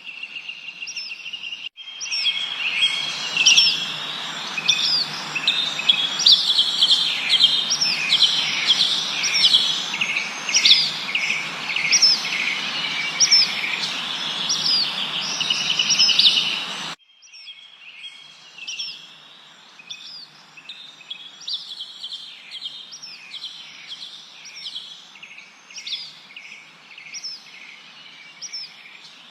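Several birds chirping and whistling, with many short, repeated down-slurred notes overlapping. From about two seconds in, the birdsong is louder over a steady hiss, and both cut off abruptly past the middle, leaving quieter chirping.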